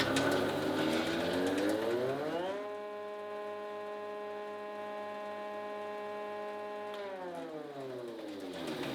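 Electric motor of a workshop machine spinning up with a rising whine, running at a steady pitch for about four seconds, then winding down with the pitch falling.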